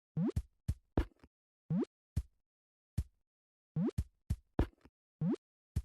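Sparse electronic beat of short upward-sweeping synth blips alternating with sharp clicks and hits, starting abruptly after silence.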